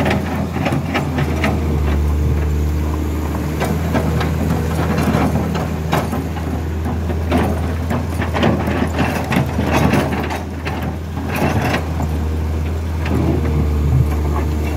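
Large diesel engine running steadily at low revs, with scattered knocks and rattles over it.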